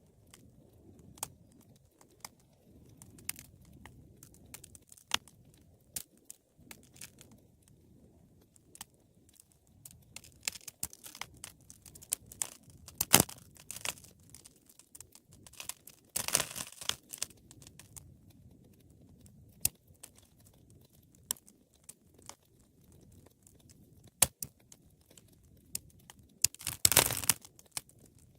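Wood fire crackling: scattered sharp pops and snaps over the soft low rumble of the flames, with a denser flurry of crackling about halfway through and another near the end.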